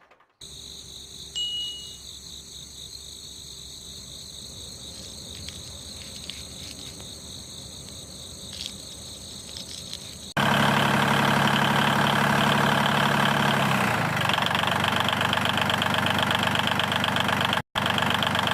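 A small electric motor in a homemade model chaff cutter. For about ten seconds there is only a faint steady whine with a few light clicks. Then the motor switches on suddenly into a loud, fast whirring buzz, which changes pitch slightly a few seconds later.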